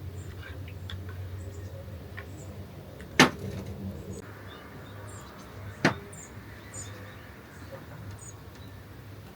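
Two sharp knocks, about two and a half seconds apart, over a low steady hum, with faint short bird chirps.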